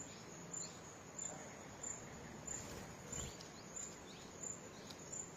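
An insect chirping: short, high chirps repeating evenly, about one and a half a second.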